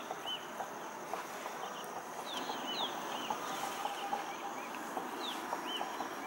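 Small birds chirping, short high calls repeated every second or so, over a steady outdoor background hiss.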